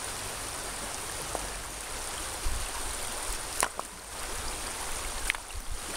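Shallow stream rushing over rocks through a riffle, a steady wash of water, with a couple of sharp clicks in the second half as hands work among the stones.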